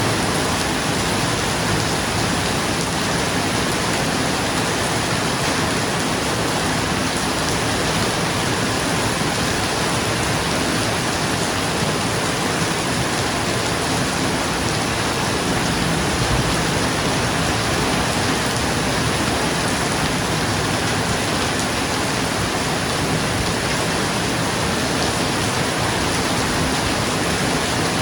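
Steady rain falling on a roof, an even dense patter with no distinct thunderclap.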